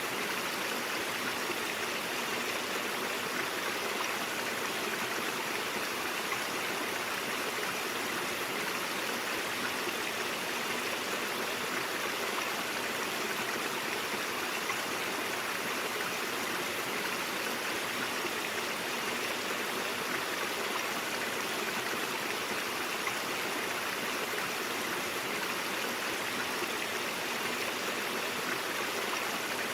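Brook water running steadily over stones, a continuous even rush without breaks.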